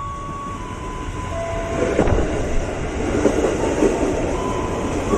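A JR 205 series electric commuter train running along the platform, growing steadily louder, with its wheels clacking over the rail joints and a sharp clack about two seconds in.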